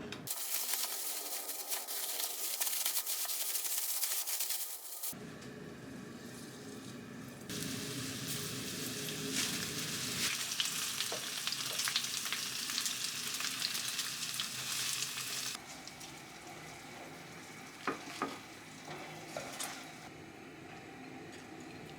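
Food sizzling as it fries in a pan, heard in two long stretches, followed by a few light knocks near the end.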